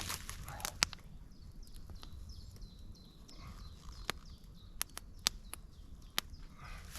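A small songbird calling a quick series of short, high chirps for a couple of seconds, over a steady low outdoor rumble. Sharp, irregular clicks sound now and then throughout.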